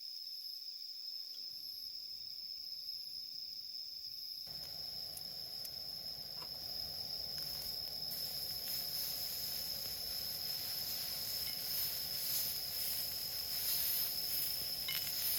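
An insect trilling: one steady, high, unbroken tone. About four seconds in, a crackling hiss joins and grows a little louder.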